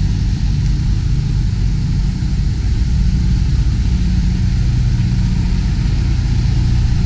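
Semi truck's diesel engine running steadily at low speed, a low rumble heard from inside the cab as the tractor-trailer pulls forward.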